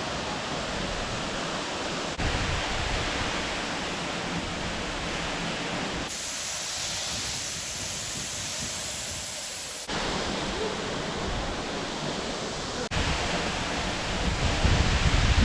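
Waterfall rushing: a steady, even roar of falling water, which changes abruptly in tone a few times.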